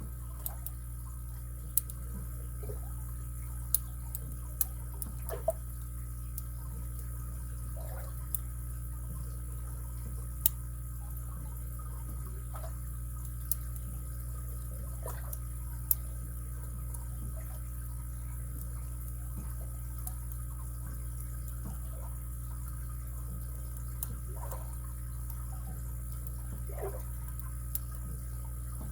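Lock pick and tension wrench working the pins of a padlock: irregular sharp metallic clicks, about one every second or two, and faint scrapes as pins are lifted and dropped, over a steady low hum.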